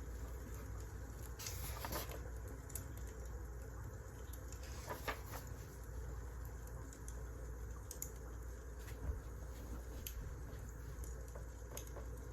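Wood fire crackling: irregular small snaps and pops, a few louder ones, over a steady low rumble.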